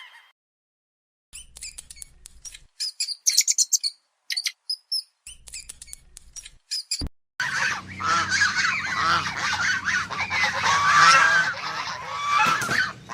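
A flock of waterfowl calling, many overlapping honks that grow dense and loud about halfway through; before that, after a brief silence, a few seconds of short scattered chirps.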